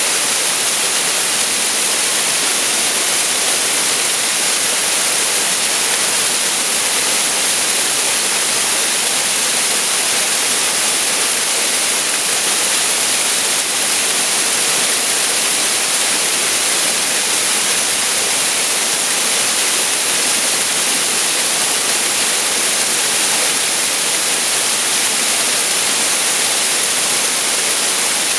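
Waterfall pouring into its pool: a loud, steady hiss of falling water, strongest in the highs, with no change.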